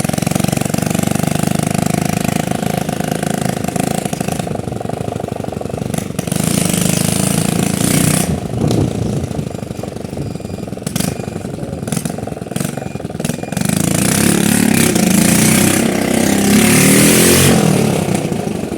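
Hero Honda single-cylinder motorcycle engine running loud and unmuffled, its silencer pipe broken off so that it sounds like a dirt bike. The exhaust note rises and falls with the throttle and is loudest a few seconds before the end.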